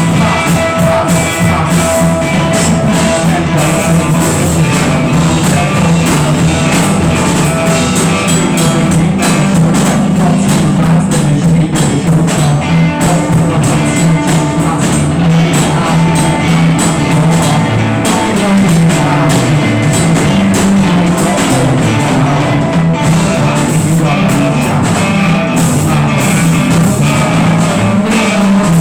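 Rock band playing an improvised jam: electric guitar, bass and drum kit, loud and steady.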